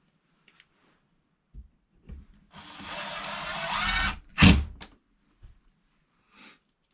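Power drill running for about a second and a half, growing louder, as a hole is drilled or a fastener is driven into trim board; then a single sharp knock.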